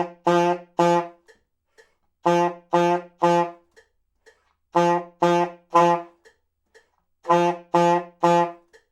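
Saxophone playing a single low note as short, hard-tongued attacks in four groups of three, the notes about half a second apart: an attack-endurance exercise, pushing a strong, even punch of air into each note.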